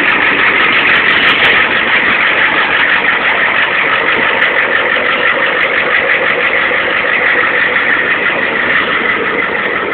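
Ford 7.3 IDI non-turbo V8 diesel idling steadily with a fast, even clatter, through a 4-inch exhaust, shortly after a cold start in below-freezing air.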